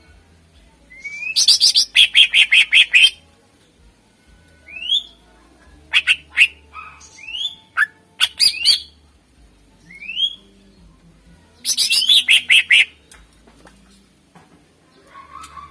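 Greater green leafbird (cucak ijo) singing vigorously. It gives short rising whistles and two fast runs of repeated sharp notes, about five a second: one a little after the start and one about twelve seconds in.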